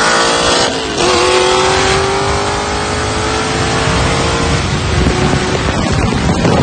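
Modified street-racing cars at full throttle in a drag race, the engine note climbing steadily in pitch. There is a short break for a gear change about a second in, then another long climb lasting several seconds. Near the end the engine note gives way to a rushing noise.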